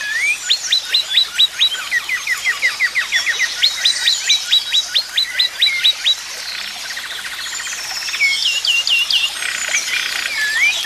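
Songbirds singing: runs of quick, sharp down-slurred whistles, several a second, with other twittering calls overlapping and a pause in the loudest song after about six seconds.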